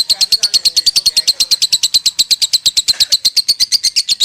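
Lovebird singing a long, unbroken 'konslet' ngekek trill: rapid high chirps repeated about a dozen times a second, without a pause.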